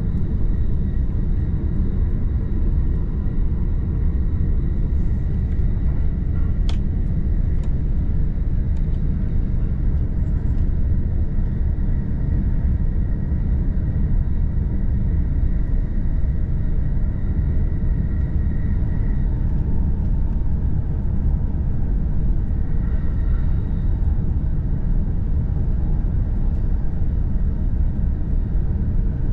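Steady low rumble of a JR Joban Line E531-series electric train running at speed, heard from inside the passenger car. A faint high whine runs through it, and there is a single sharp click about seven seconds in.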